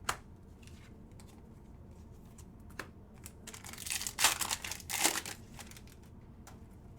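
Foil wrapper of a trading-card pack crinkling as it is handled and torn open, in two short rustling bursts about four and five seconds in, with a couple of light clicks earlier.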